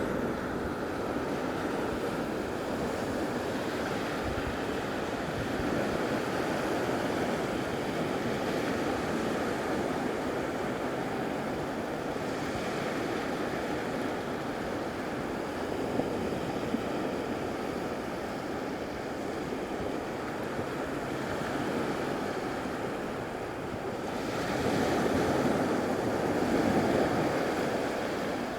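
Waves breaking and washing onto a beach, with wind buffeting the microphone. The surf swells louder near the end.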